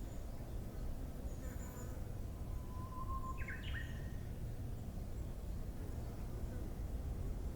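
Japanese bush warbler (uguisu) singing a single song about three seconds in: a long held whistle followed by a quick higher flourish. A few faint, very high chirps come shortly before it, over a steady low background noise.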